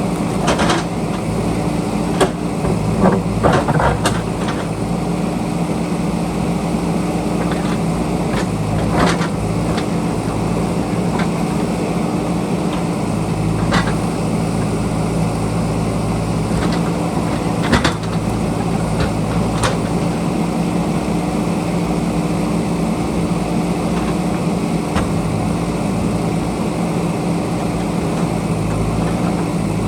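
JCB backhoe loader's diesel engine running steadily, with scattered sharp knocks and clanks, several in the first few seconds and one more about eighteen seconds in.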